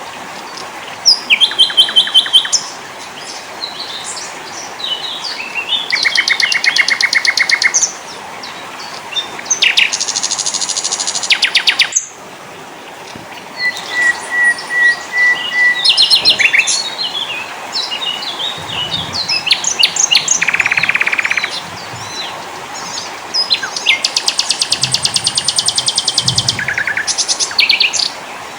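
A mix of several small forest songbirds calling: quick, evenly pulsed trills, high chirps and short whistled notes, one bird after another over a steady hiss. The recording cuts abruptly to a different take about twelve seconds in.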